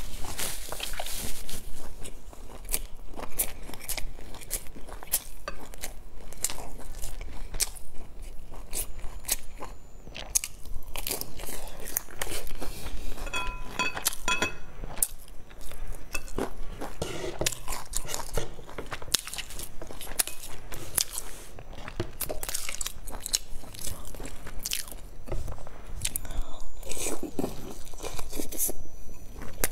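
Close eating sounds: bites into and chewing of crisp-bottomed pan-fried buns, a dense run of short crunches and wet chewing clicks. About halfway through there are a few short, light ringing ticks.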